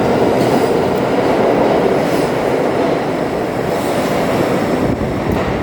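R42 subway train in motion: a loud, steady rumble of wheels and running gear on the track.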